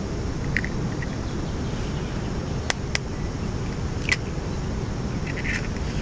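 A few short bird calls over a steady low background rumble, with two sharp clicks about a quarter second apart near the middle.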